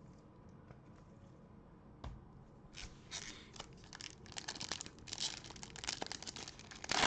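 A light thump about two seconds in, then the foil wrapper of a trading-card pack being torn open and crinkled, in rapid rustling crackles that grow louder toward the end.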